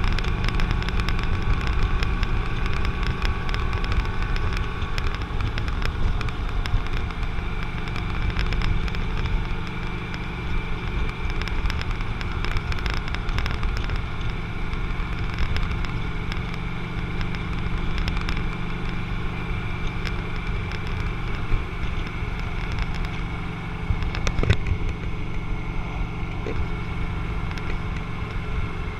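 Motorcycle engine running steadily at cruising speed while riding, under low wind rumble on the camera's microphone. A single sharp tap about 24 seconds in.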